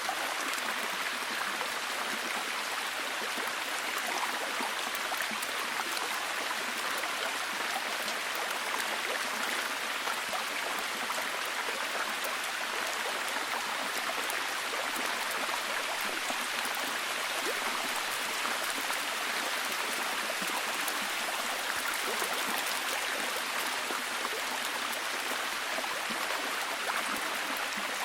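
Steady, heavy rain falling, an even hiss of water with many fine drop patters throughout.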